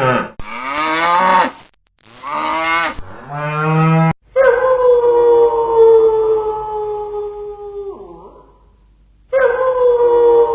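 Cattle mooing: a series of separate moos, the first few short and arching up and down in pitch, then one long moo of about four seconds that sags slightly and drops at its end, and a shorter one near the end.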